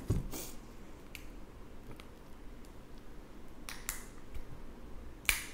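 Crab shell being cracked open by hand: a few faint snaps and crinkles, then one sharp crack near the end.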